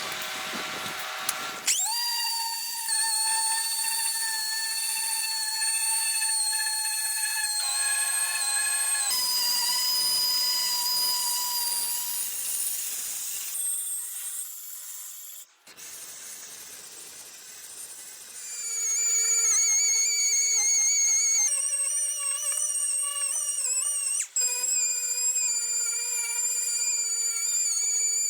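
Electric power tool running at a steady high whine, in a series of short takes that each settle at a different pitch, some holding steady and some wavering slightly.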